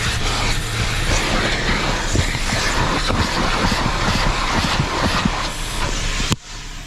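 Coin-operated car-wash vacuum running hard, a steady rushing roar with debris clattering and rattling through the hose, then shutting off abruptly near the end.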